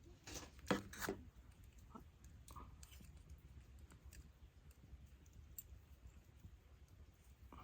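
A few sharp clicks and knocks within the first second or so, then faint scattered ticks.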